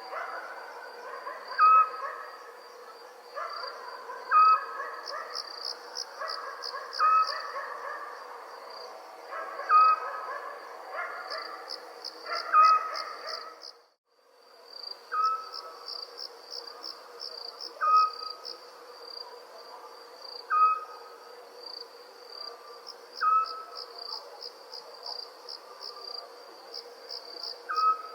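Crickets chirping in a steady, pulsing high trill, with a short owl call repeating about every three seconds as the loudest sound. The whole sound cuts out for a moment about halfway through, then resumes.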